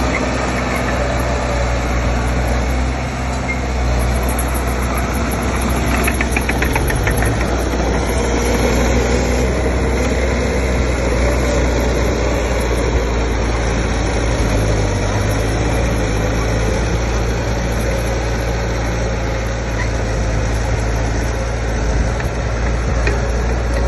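Heavy diesel engine of earthmoving machinery running steadily, with a brief patter of light clicks about six seconds in.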